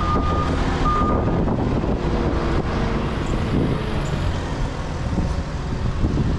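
A reversing alarm beeping twice near the start, over a steady low engine rumble and wind noise on the microphone.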